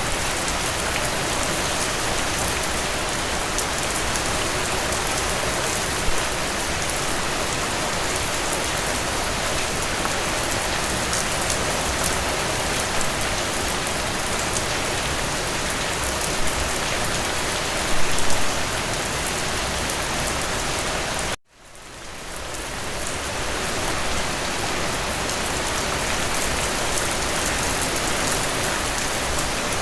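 Steady rain falling, an even hiss of many drops with a few slightly louder patters. About two-thirds of the way through, the sound cuts out for an instant and then fades back in over a couple of seconds.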